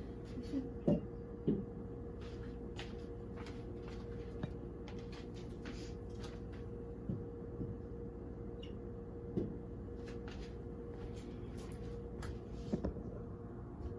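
Scattered light clicks and knocks of cat food bowls and dishes being handled and set out, over a steady low hum.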